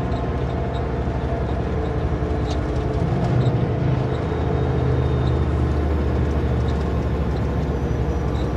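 Kenworth W900L semi truck's diesel engine running steadily under road noise as the truck drives down a highway grade.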